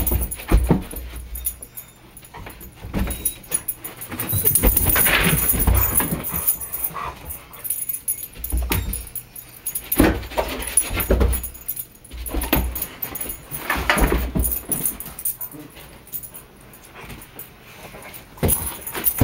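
Dogs scrambling and thudding about, with a German Shepherd mix whining now and then.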